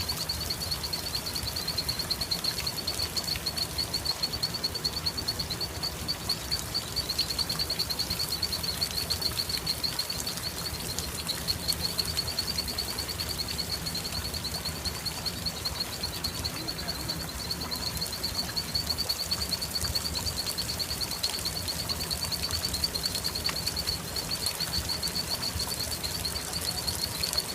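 Outdoor nature ambience: a steady, high-pitched, rapidly pulsing trill runs throughout over an even background hiss.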